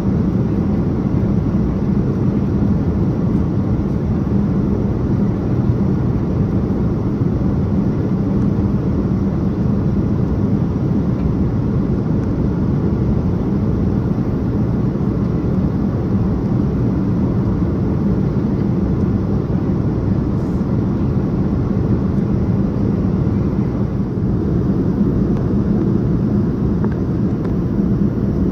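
Steady cabin noise of a Boeing 787-9 airliner in flight, heard from a passenger seat: a constant low rush of engines and airflow with a steady low hum underneath.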